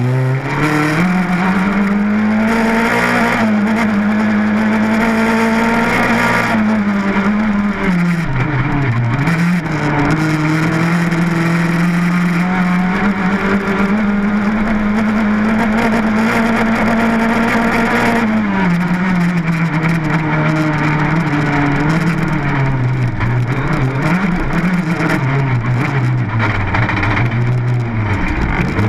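Rally car engine heard from inside the cabin, running hard at high revs on a stage. The revs drop sharply about seven seconds in and again around eighteen seconds, then climb back, with more up-and-down near the end, over a steady rush of tyre and road noise.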